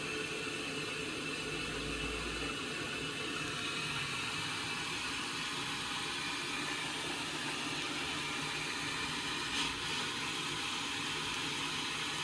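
Indesit washing machine filling with water: a steady hiss of water running in, with one short click about ten seconds in.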